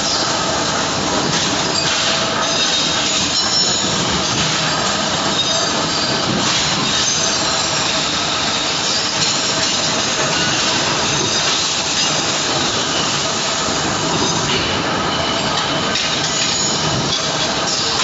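Steady, loud machinery noise from a 75-ton horizontal forging machine production line running, with thin high-pitched squealing tones over a dense rumble.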